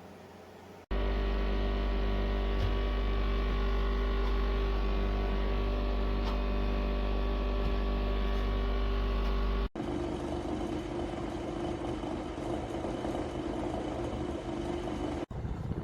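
Dehumidifier running: a steady machine hum with a strong low tone and fan noise. It starts abruptly about a second in, changes abruptly near ten seconds to a noisier, airier hum, and breaks off again just before the end.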